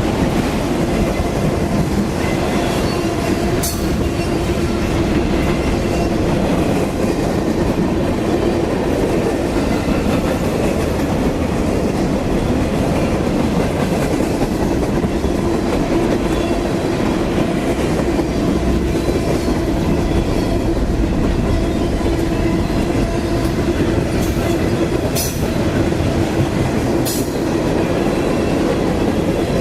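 Freight cars of a CSX manifest train rolling past, a steady loud rumble of steel wheels on rail with a constant hum and clickety-clack. There are a few sharp clanks, one about four seconds in and two near the end.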